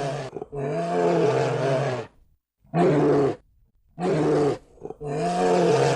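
Lioness roaring in a series of calls, some about a second and a half long and some shorter, with brief pauses between them.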